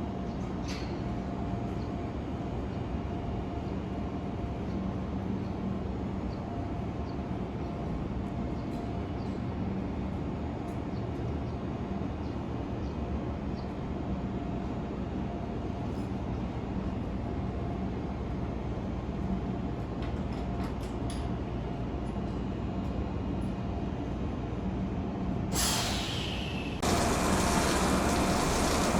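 Meitetsu 6500 series electric train standing with a steady low hum from its equipment. Near the end a falling whine, then a louder steady hiss of air.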